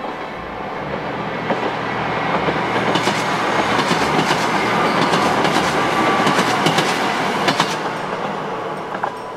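Kyoto Tango Railway KTR8000 series 'Tango no Umi' diesel train passing over a level crossing: the rumble swells, wheels clatter over the rail joints in two clusters of clicks, and the sound fades away near the end.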